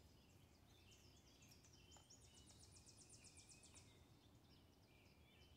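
Faint songbirds: scattered high chirps throughout, and a rapid trill of high notes starting about two seconds in and lasting about a second and a half, over faint low background noise.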